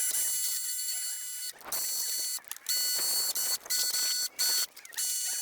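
Electric water blaster (pressure washer) spraying in repeated short bursts as the trigger is squeezed and released: a high whine over the hiss of the jet, cutting in and out about six times.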